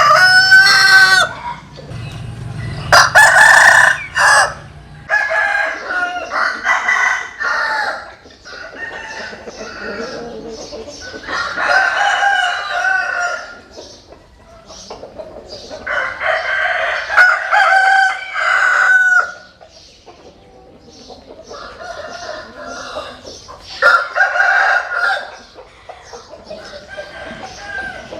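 Several roosters crowing one after another, a long crow every few seconds, with chickens clucking in between.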